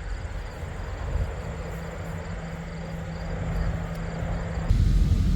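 Semi-truck running with a steady low engine hum and road noise. Near the end it jumps to a louder, deeper rumble.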